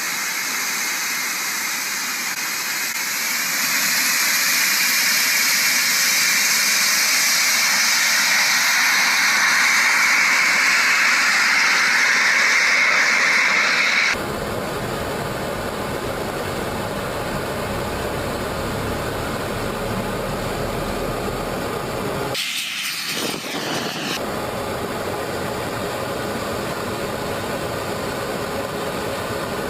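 Small twin turbojet engines of a Colomban Cri-Cri jet running with a steady high whine and hiss, which grows louder and rises slightly in pitch about 3–4 s in. About halfway through the sound changes abruptly to a lower, rougher steady rushing noise, which drops out briefly near the end.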